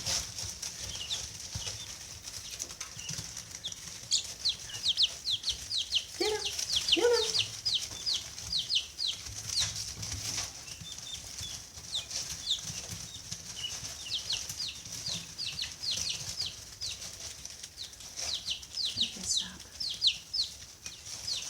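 A brood of baby guinea keets, chicks and peachicks peeping constantly in many short, falling peeps. A couple of lower calls come about six to seven seconds in.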